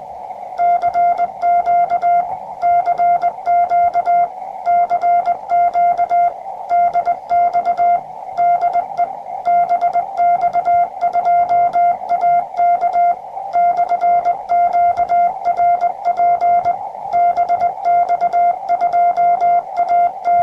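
Morse code from a QRP Labs QCX-20 transceiver: a single mid-pitched CW beep keyed on and off in dots and dashes, over a steady band of receiver hiss.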